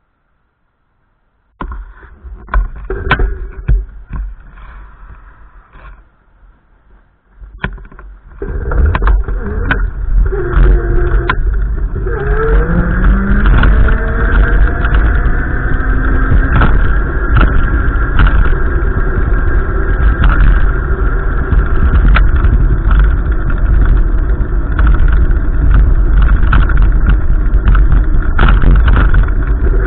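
A motor vehicle moves off and then runs at steady speed: its engine note rises for a few seconds and then holds level under a loud, steady low rumble. Before that there are a few sharp knocks.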